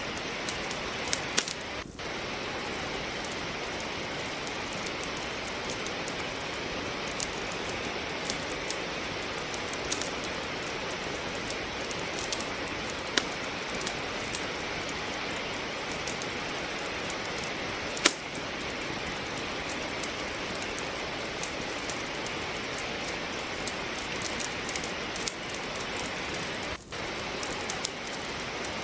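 Steady rain hiss with the sharp crackles and pops of burning wood in a fireplace scattered through it, one louder crack about eighteen seconds in.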